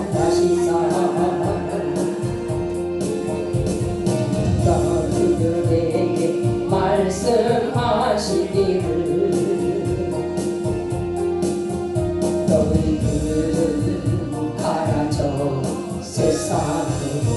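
Gospel song: singing voices over instrumental accompaniment with a steady beat, including long held notes.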